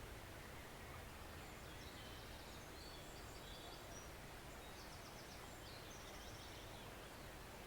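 Forest stream flowing faintly and steadily. A small bird sings short runs of quick high notes from about two seconds in until near the end.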